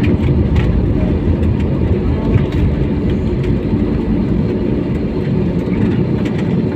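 Steady low rumble of an airliner's jet engines and airframe heard from inside the passenger cabin as the plane moves on the ground.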